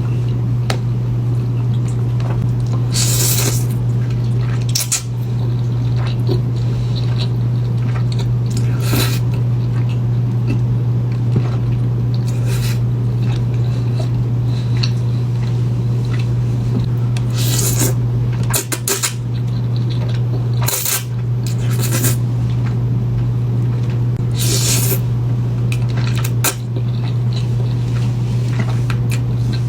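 Eating sounds: utensils clinking and scraping against a dish, with short wet bites every few seconds. A loud, steady low hum runs underneath.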